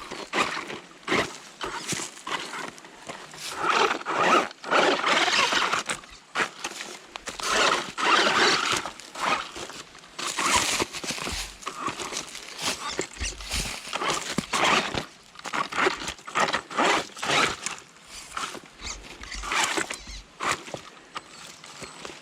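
WLtoys 104009 electric RC car driving in short bursts over rough ground, its motor whining up and down as the wheels scrabble, with repeated clicks and knocks.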